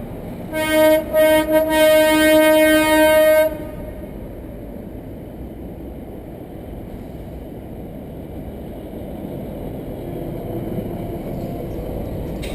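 Truck air horn blowing: a couple of short toots and then one long blast of about three seconds, which cuts off. A steady engine and road rumble follows.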